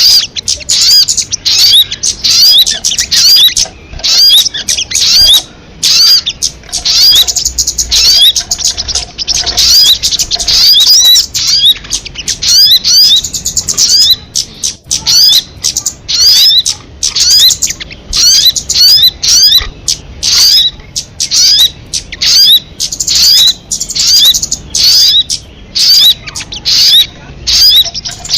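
Sogon bird song recording: fast runs of short, high chirps, each sweeping upward in pitch, with brief pauses between the runs.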